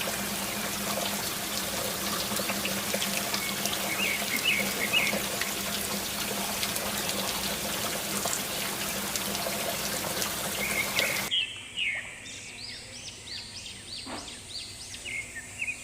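Water gushing steadily from a pump outlet, with a steady low hum beneath it and a few bird chirps. About eleven seconds in the rush cuts off abruptly, leaving a bird chirping repeatedly.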